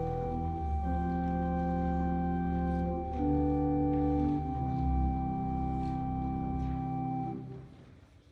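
Organ playing slow, held chords that change a few times, ending on a final chord about seven seconds in that dies away in the room's echo.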